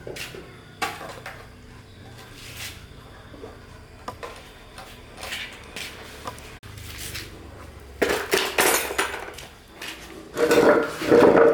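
Objects being handled: scattered light clicks and clinks, then louder clattering and scraping in the last few seconds.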